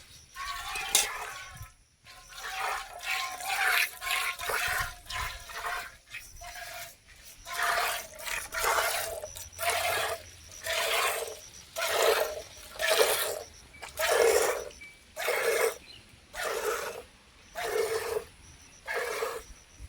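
Cow being milked by hand: milk squirting into a pail in spurts. They are irregular at first, then settle into a steady rhythm of about one a second.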